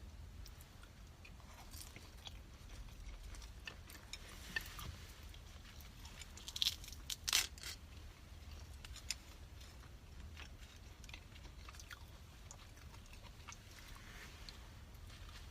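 A person chewing and eating close to the microphone: soft, wet mouth sounds with scattered small clicks, and a short cluster of louder sharp clicks and smacks about halfway through.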